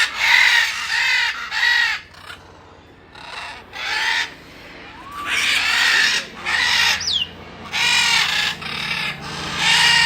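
Parrots squawking loudly: repeated harsh, raspy calls in quick groups, several birds overlapping, with one high whistle sliding down in pitch about seven seconds in.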